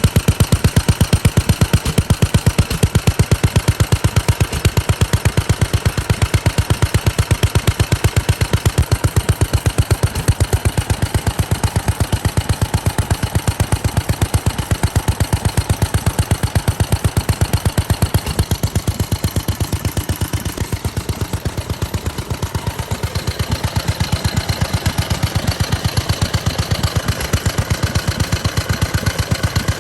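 Japanese stationary engine (hatsudōki), built around 1960 in Fukuyama, running steadily with an even, regular firing beat.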